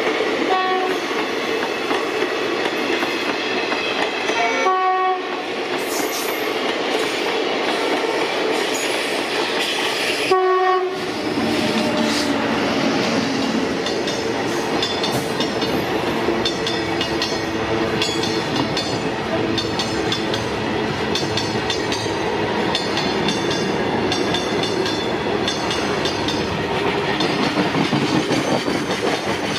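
Trains running close by: passenger coaches and then a freight train of covered and flat wagons roll past with continuous rumble and clickety-clack of wheels over rail joints. Short horn notes sound about 5 and 10 seconds in, and the wheel clicks grow denser as the freight wagons pass.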